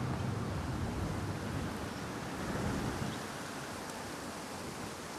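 Steady rushing outdoor noise, with a low rumble that fades out about three seconds in.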